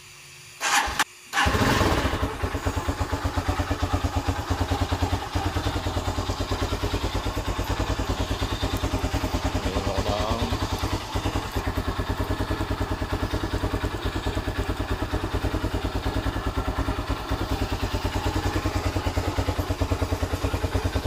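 Rusi Classic 250 motorcycle engine with its stock muffler started: a brief crank about a second in, then it catches and idles steadily with an even pulse.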